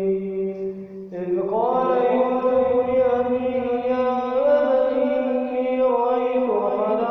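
A man reciting the Quran in melodic tajweed style. A long held note fades out about a second in, then after a brief breath a new phrase starts with a rising slide and goes on in long, drawn-out notes.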